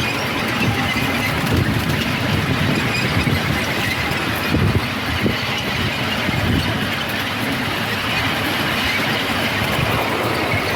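Miniature railway train running on its track: a steady rumble of wheels on rail with a faint high squeal.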